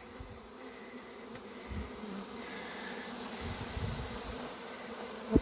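Honey bee swarm buzzing: a steady hum of many bees flying. A short low thump near the end.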